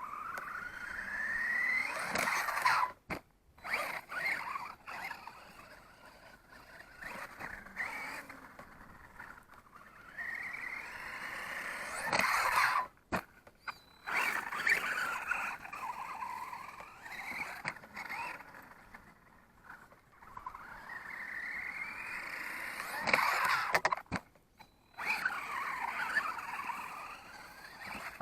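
Radio-controlled monster truck's electric motor whining, rising in pitch as it speeds up and falling as it eases off, about three times, with scraping and clicks along the way.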